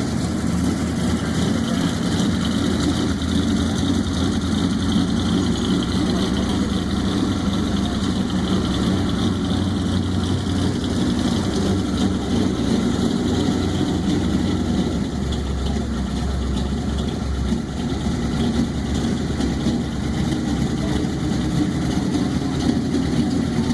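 Fuel-injected 427 cubic-inch Ford small-block V8 in a 1940 Ford truck rat rod, idling steadily.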